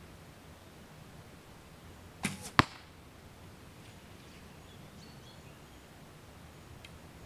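An arrow shot from a bow: the release about two seconds in, then a third of a second later the arrow striking a 3D foam target with a single sharp smack.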